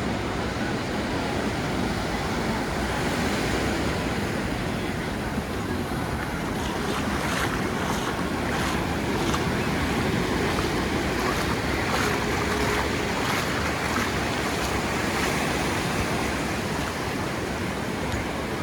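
Sea waves breaking and washing up on a sandy beach: a steady rushing surf.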